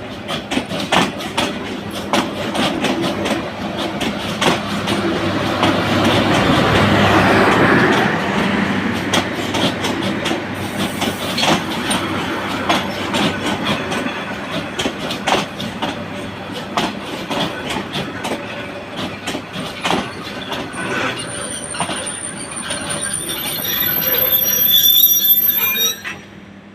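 Burimari Express passenger train's coaches rolling past, their wheels clacking quickly and steadily over rail joints over a heavy rumble. Near the end the wheels squeal in thin, high tones, then the sound drops off suddenly.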